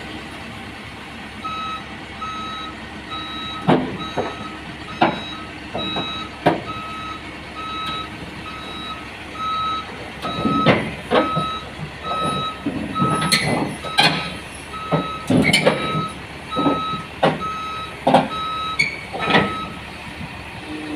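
A truck's reversing alarm beeping steadily at an even pace, with irregular loud knocks and bangs over it that are louder than the beeps.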